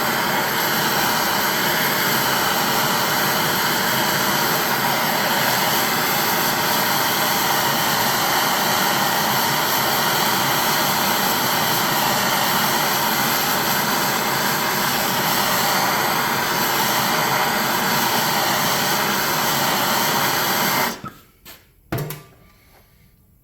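Heat gun blowing steadily, heating a bent motorcycle wheel rim to straighten it; it is switched off about two seconds before the end, followed by a sharp knock or two.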